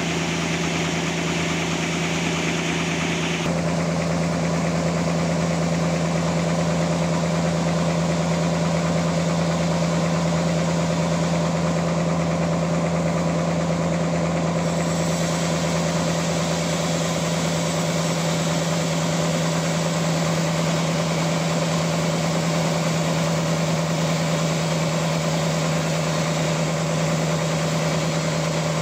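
Sawmill machinery running steadily, its drive holding one constant hum with overtones. The higher hiss over it shifts about three seconds in and again about halfway through.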